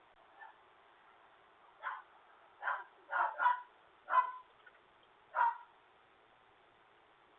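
Dogs inside the house barking in reaction to the doorbell being rung, heard thin and muffled through the Ring doorbell camera's microphone: about seven separate barks, the loudest in the middle of the run.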